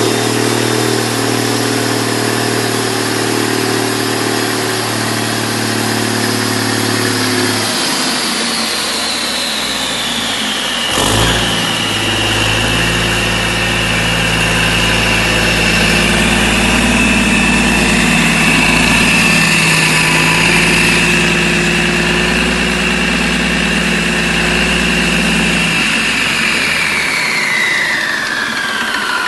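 Cummins KTA19 marine diesel, a turbocharged inline six, running steadily. A high whine falls in pitch about eight to eleven seconds in and again near the end as the revs come down, with a single knock about eleven seconds in.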